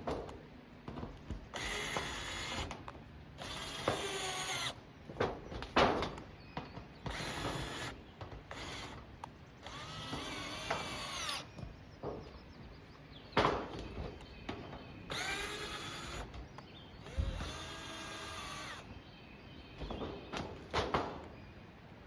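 Power drill running in short bursts, about ten times, each whining up and winding down over a second or so, as it drives screws to fasten torn tin roofing back down.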